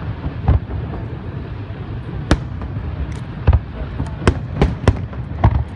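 Aerial fireworks shells bursting: about seven sharp bangs at irregular intervals, coming faster in the second half, over a steady low rumble.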